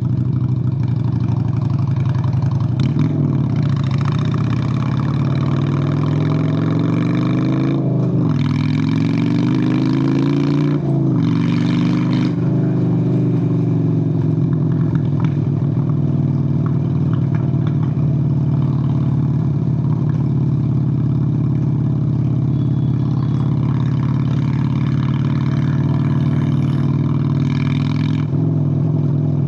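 Honda Steed VLX 600 motorcycle's 583 cc V-twin engine under way. In the first dozen seconds the revs climb and fall back sharply three times as it pulls through the gears, with wind rushing over the mic. After that it holds steady at a cruise.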